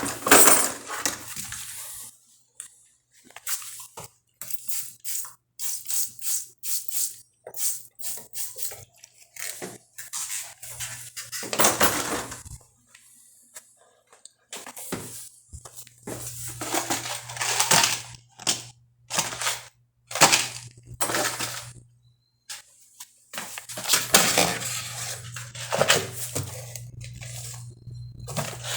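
Repeated clinks, knocks and clatter of hard objects being handled at irregular intervals, with a low steady hum that comes and goes.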